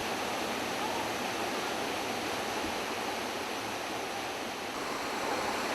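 Mountain stream water running steadily, an even rushing hiss with no break.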